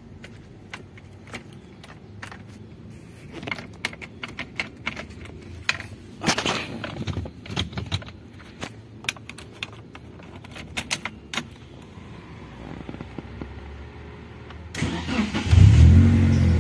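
Scattered clicks and key rattles at the ignition of a 1991 Mitsubishi Lancer with a DOHC fuel-injected engine. Near the end the starter cranks briefly, the engine catches, and it settles into a steady idle.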